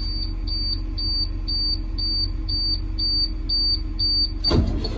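School bus dashboard warning beeper sounding with the key on, a high beep about twice a second over a low idling rumble. Near the end the beeping cuts off with a sudden burst of noise, and the low rumble grows louder as the engine is cranked.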